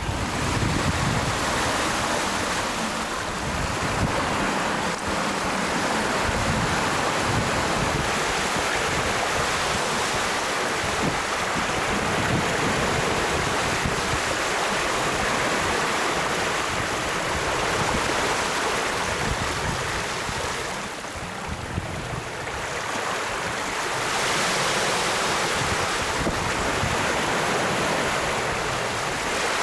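Wind and sea rushing past a sailboat under way in open ocean, with wind buffeting the microphone. The rush eases briefly a little after two-thirds of the way through.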